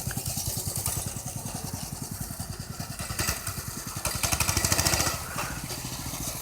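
Coleman CT200U mini bike's small single-cylinder four-stroke engine running with a rapid, even putter, picking up a little about four seconds in. It is an old, gummed-up carburetor that the owner says keeps it from running right.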